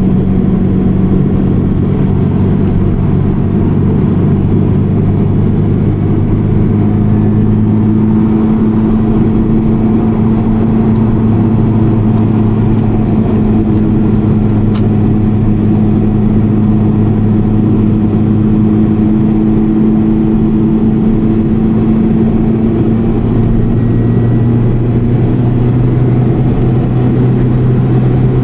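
Honda Integra Type R (DC5) driving at a steady speed, its engine and road noise running loud and even. The engine's pitch shifts slightly about two-thirds of the way through.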